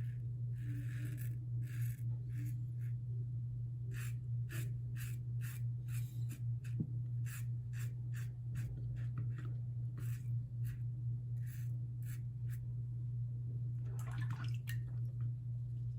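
Short scraping strokes of a brass Karve safety razor with a Gillette Nacet blade cutting stubble through shaving-cream lather, coming in quick irregular runs of up to about two a second, over a steady low hum.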